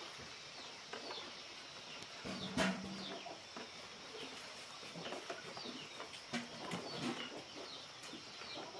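Chickens clucking, with many short, high, falling peeps scattered throughout. A single sharp knock comes about two and a half seconds in.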